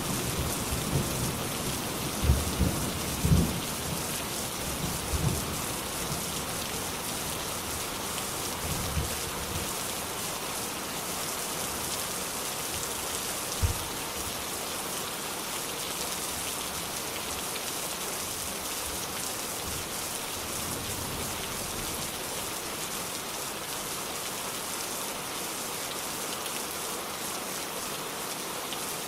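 Steady rain falling, with low rolls of thunder rumbling in roughly the first third, then rain alone.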